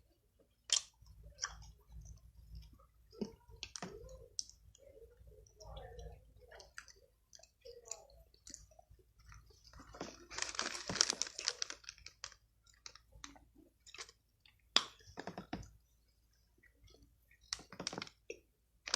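Someone chewing a cookie close to the microphone: soft crunches and wet mouth clicks, with a denser stretch of crunching about ten seconds in.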